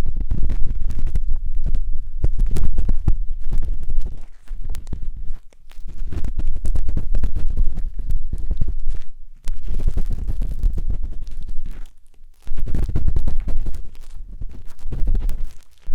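Close-up ear-cleaning scratching inside the silicone ear of a 3Dio binaural microphone: crackly rubbing and scraping with many small clicks and a low rumble, coming in spells with a few short pauses.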